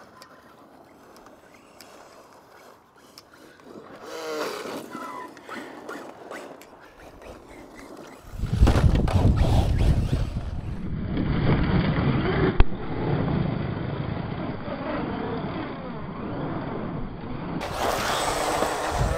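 Arrma Mojave brushless RC truck being driven. A faint rising and falling motor whine comes in about four seconds in, then from about eight seconds a loud, noisy running sound of the truck with one sharp knock a few seconds later.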